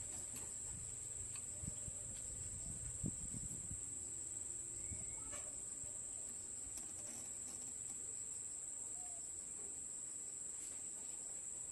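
Steady high-pitched insect chirring, like crickets, with a few faint knocks a few seconds in.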